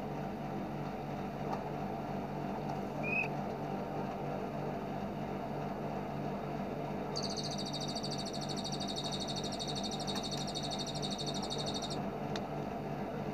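Bar-winged prinia (ciblek) giving its 'bren' song: a rapid, high, buzzing rattle held for about five seconds from midway. A single short chirp comes about three seconds in, and a steady low hum runs underneath.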